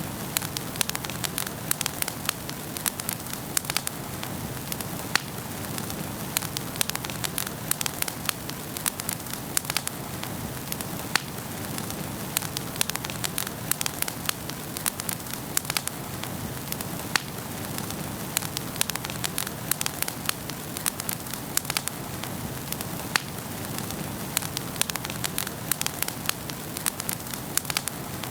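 Wood fire burning in a fireplace, crackling and popping at an irregular pace over a soft, steady hiss.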